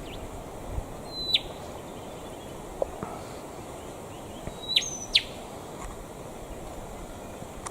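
A bird giving three short, sharp calls that sweep steeply down in pitch: one about a second in, then two close together about five seconds in, over steady outdoor background noise.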